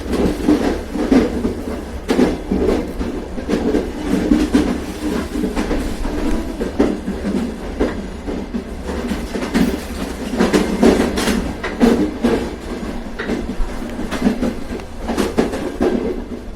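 A moving train running steadily, a low rumble with frequent irregular clicks and clacks of the wheels over the rail joints.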